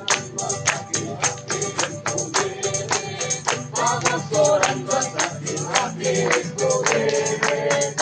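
Live worship music: a percussion beat of about four sharp strikes a second over a steady backing, with voices singing along from about halfway in.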